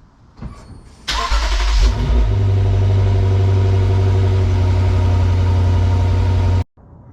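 Lexus IS 500's 2UR-GSE 5.0-litre V8 through an ARK GRiP catback exhaust starting up. It catches about a second in with a short rev flare, then settles into a steady idle that cuts off abruptly near the end.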